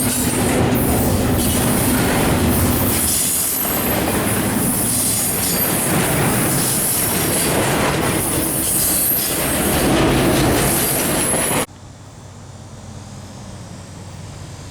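CSX freight train cars rolling past, wheels squealing and clicking over the rail joints. The train sound cuts off abruptly about twelve seconds in, leaving a much quieter outdoor background.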